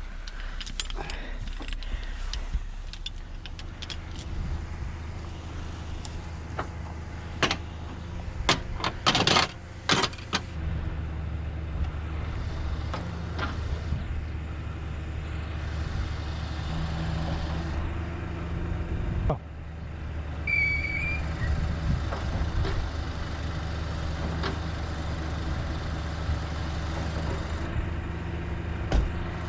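Heavy truck's diesel engine idling steadily. A burst of sharp metal clanks and rattles comes about a third of the way in.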